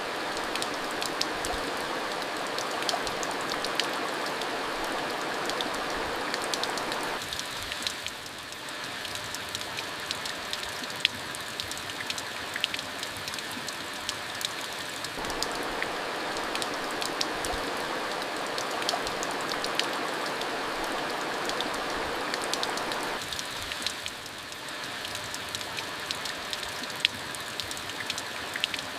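Steady rainfall with many sharp drop ticks. A fuller, heavier layer of rain swells for several seconds, eases off about seven seconds in, returns about fifteen seconds in, and eases off again about twenty-three seconds in.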